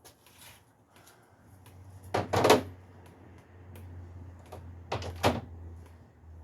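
Socket tool working the engine-mount bolts on a 2003 Ford Focus: two short bursts, about two seconds and five seconds in, over a low steady hum.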